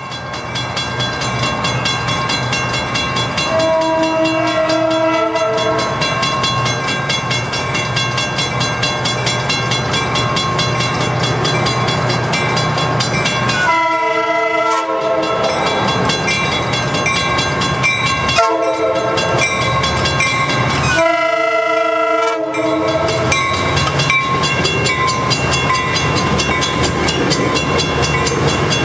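Coaster commuter train approaching at speed and sounding its multi-note horn in four blasts, over a steady rumble of wheels on rail that grows into the rush of its bilevel cars passing close by near the end.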